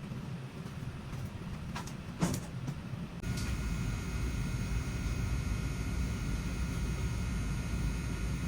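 A couple of clicks, then about three seconds in an air handler's blower fan starts and runs steadily, a low rumble with a steady high whine over it.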